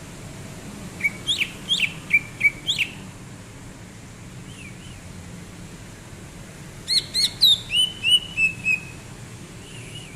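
Green leafbird (cucak ijo) singing: two short bursts of quick, sharp whistled notes, one about a second in and another about seven seconds in, with a few softer notes between.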